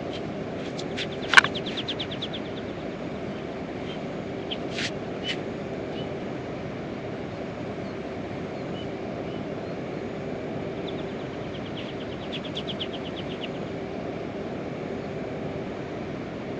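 Steady outdoor background noise with a faint steady hum, a sharp click about a second and a half in, and two short rapid chirping trills, one near the start and one past the middle.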